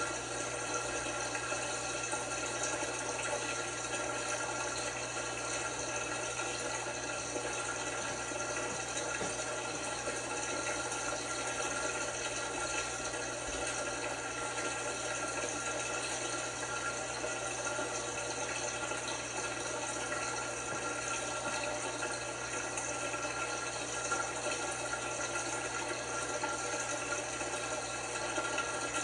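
LG washing machine with water rushing steadily through it, over a steady low hum.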